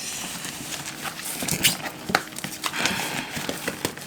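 Cardboard shipping box being torn open by hand without a knife: irregular scratching, ripping and knocking on the cardboard and tape.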